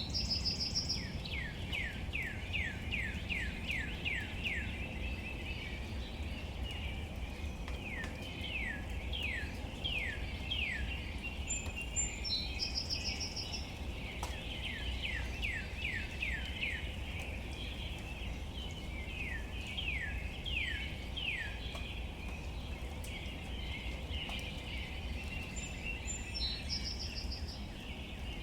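A songbird sings the same phrase over and over, a quick series of descending whistled notes, several times, each phrase starting with a few higher, rapidly pulsed notes. Underneath is a steady hiss of rain falling on leaves and a low outdoor rumble.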